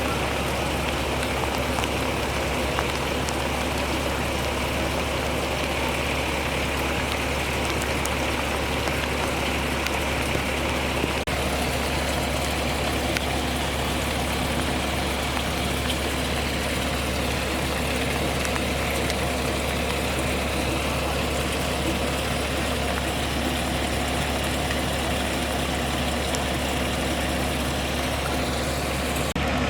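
A fire truck's diesel engine idling steadily, a constant low hum.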